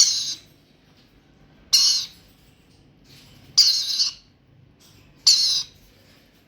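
Baby lory parrot giving four short, harsh calls, spaced roughly two seconds apart.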